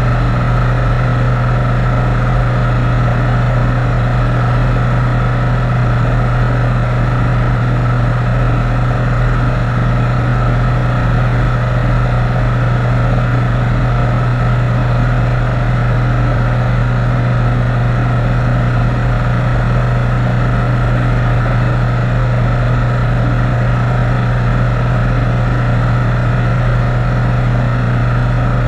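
Light airplane's piston engine and propeller droning steadily at cruise, a loud unchanging drone with a strong low hum.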